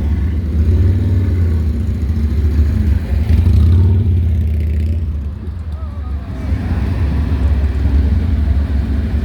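A car's engine running close by, low-pitched and steady, easing off for a moment about five seconds in.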